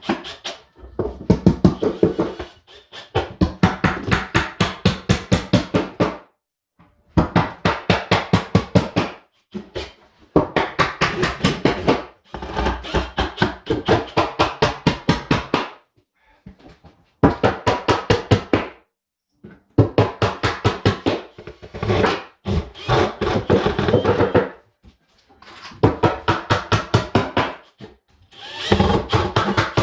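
Rapid, even strokes of a tool working wood, about seven a second, in bursts of two to three seconds with short pauses between.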